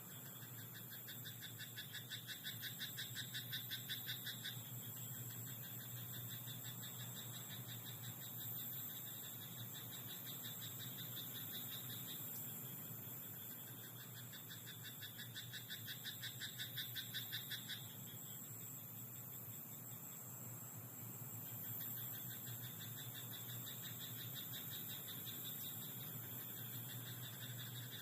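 Paddy frogs croaking in rapid, rattling call trains, each bout running a few seconds before another takes over, over a steady high insect trill.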